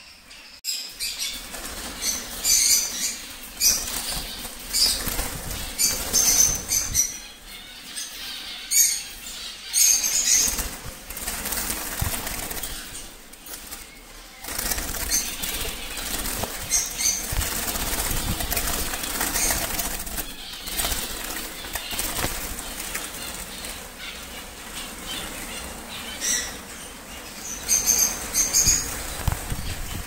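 Birds' wings flapping, with clusters of short, high chirps now and then.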